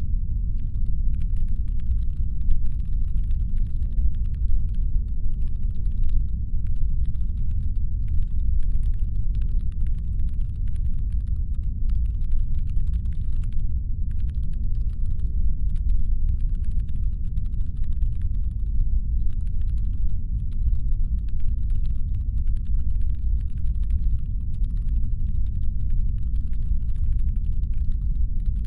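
Steady, deep brown-noise rumble made to sound like a spaceship's engine hum, even and unchanging. A much fainter, fast crackle of small clicks sits over it.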